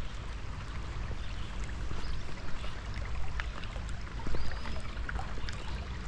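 Creek water running steadily over rocks, with a few light clicks and knocks over it.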